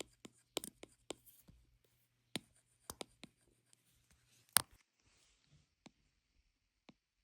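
Faint, irregular taps and ticks of a drawing tool on the drawing surface: about a dozen short strokes, the loudest about four and a half seconds in, thinning out near the end.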